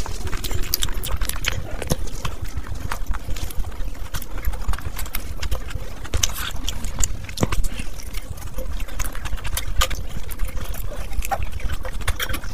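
Close-miked eating: two people chewing with their mouths open and smacking their lips, with many irregular sharp, wet clicks and soft crunches.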